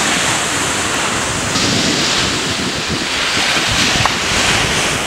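Sea surf breaking and washing up a sandy beach, a steady rushing noise, with wind buffeting the microphone.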